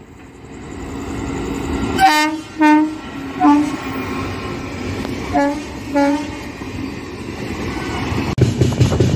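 Passing Indian Railways express train sounding its horn: five short blasts, two close together, then one, then two more, over the rising rumble and rattle of the train approaching and rushing past. Near the end it changes abruptly to the rhythmic clatter of wheels on rail joints heard from aboard a moving train.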